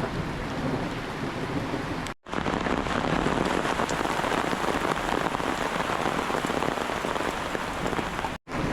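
Steady, heavy rain falling as an even hiss. The sound drops out for an instant about two seconds in and again near the end, at cuts in the recording.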